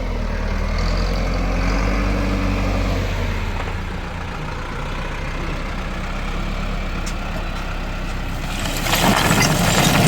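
Tractor engine running steadily at a low hum. A louder, noisy sound sets in near the end.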